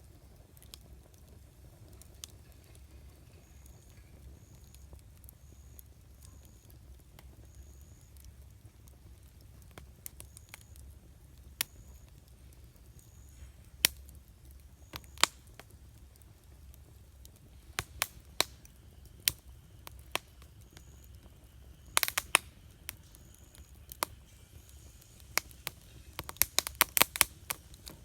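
Campfire crackling: burning wood gives sharp, scattered pops and snaps, sparse at first and coming in quick clusters near the end, over a low steady rumble.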